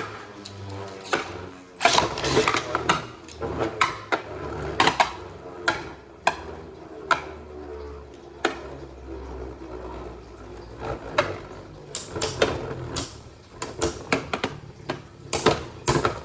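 Two Beyblade Burst spinning tops whirring round a plastic stadium, with many sharp plastic clacks as they collide, in bunches, several times.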